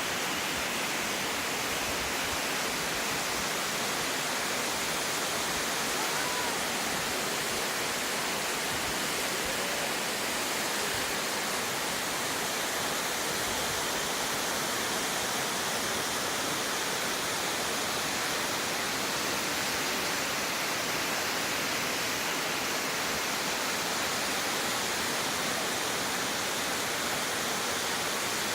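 Shirahige Falls: water falling and splashing in a constant, even rush with no breaks.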